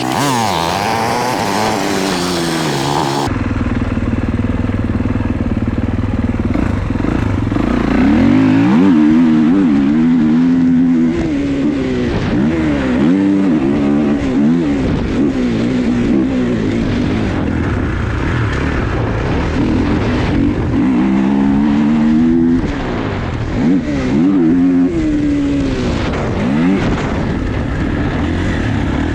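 Dirt bike engine being ridden hard, its pitch rising and falling over and over as it revs up and backs off.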